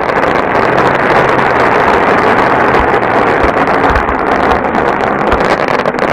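Fireworks fountains and comets firing together in a chain from a fused board of tubes: a loud, steady, continuous hissing rush of sparks, with a few low thumps under it.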